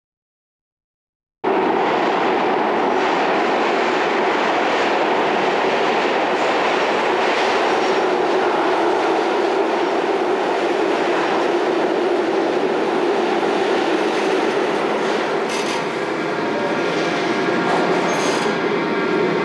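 A rail vehicle running: a loud, steady rumble of wheels on track that starts abruptly after about a second and a half of silence, with a faint whine near the end.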